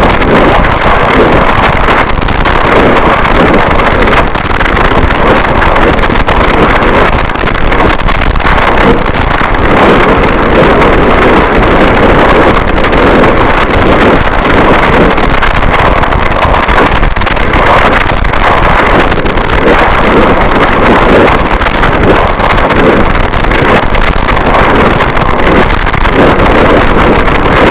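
Harsh noise wall: a loud, unbroken wall of distorted static with a churning texture and no beat, strongest in the middle range.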